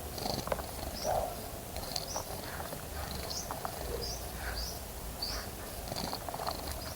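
Small birds giving short, high chirps about a dozen times, with a few brief splashes and clicks, over a steady low rumble.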